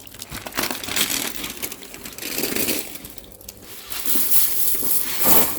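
Shovel scraping and crunching into wet gravel fill, in several scoops, with the loudest one near the end.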